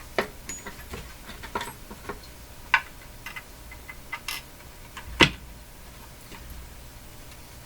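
Irregular clicks and taps of small hard parts and hardware being handled on a workbench, the loudest knock about five seconds in, thinning out near the end.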